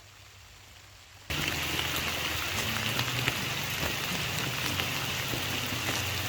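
Heavy rain pouring down in a steady hiss with many small drop impacts, cutting in abruptly about a second in after near quiet.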